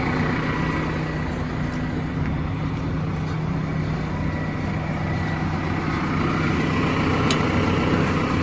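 Tractor diesel engine running steadily, a constant low hum.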